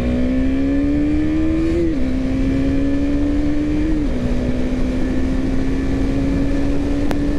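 KTM Duke 250 BS6's single-cylinder engine accelerating through the gears. The engine note climbs, drops sharply at an upshift about two seconds in, climbs briefly, drops again at a second upshift about four seconds in, then holds nearly steady.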